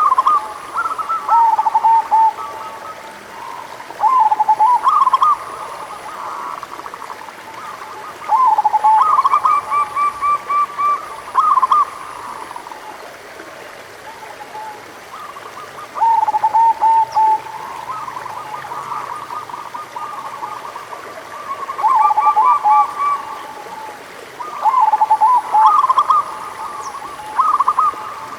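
Zebra doves (perkutut) cooing: bursts of quick, stuttering coo notes and trills, a phrase every few seconds, over a steady hiss.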